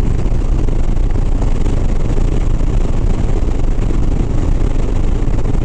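Harley-Davidson Sport Glide's V-twin engine running steadily at highway cruising speed, a low drone mixed with wind rush.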